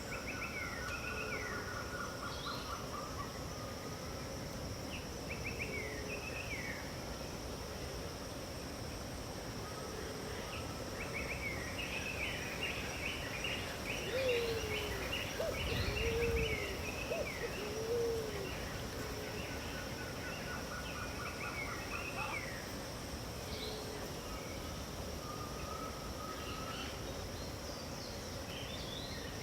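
Several birds calling and trilling over a steady, high insect drone. About halfway through, a lower call of three or four arching notes sounds, with a brief low rumble.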